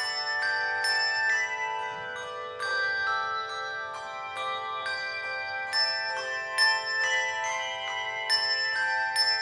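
Handbell choir playing a tune: bronze handbells struck a few at a time, their pitched notes ringing on and overlapping into chords.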